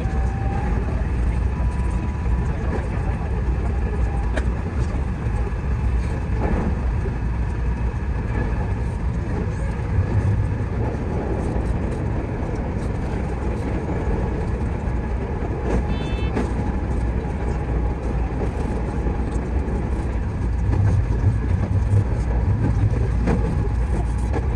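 Steady running noise of a JR West 207 series 1000 electric train heard inside the driver's cab, a continuous low rumble with rail noise over it, and a brief high-pitched beep about two-thirds of the way through.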